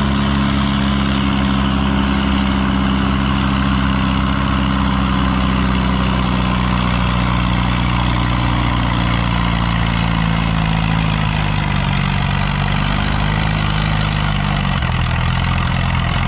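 Antique farm tractor engine pulling a weight-transfer sled under heavy load, running steadily, then lugging down with its pitch sagging over the last few seconds as the sled stops it.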